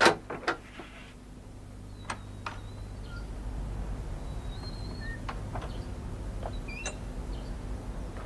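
A sharp knock followed by two lighter knocks at the start, then sparse high bird chirps and short whistles over a low steady hum.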